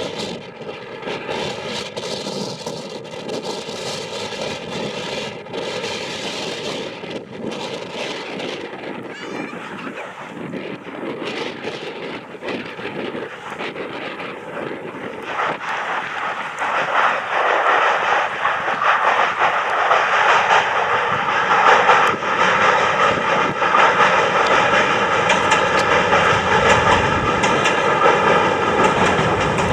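Eight-car electric train running past on its line, a steady rumble with faint whining tones that grows louder about halfway through as the train draws close.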